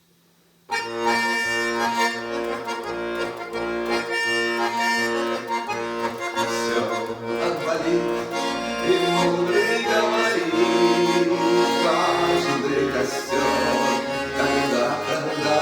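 Accordion playing the instrumental introduction to a song, held chords over a steady pulsing bass line, starting about a second in.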